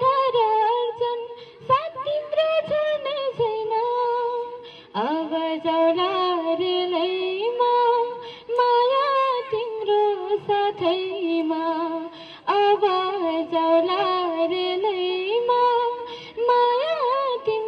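A woman singing a Nepali song melody, her voice sliding between long held notes with short breaks for breath.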